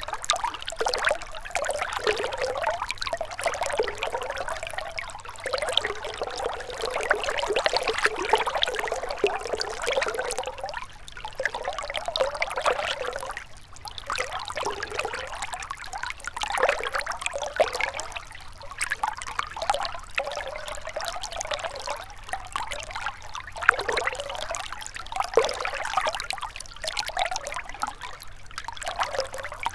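Gentle river water trickling and babbling, full of small splashes, its level swelling and easing every few seconds with a brief dip about halfway through.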